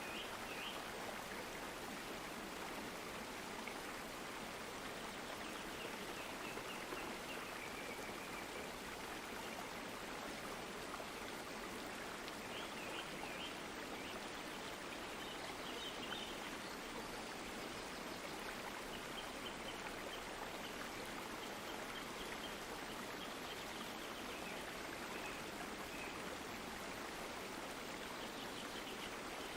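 Stream water flowing steadily, with faint high chirps now and then.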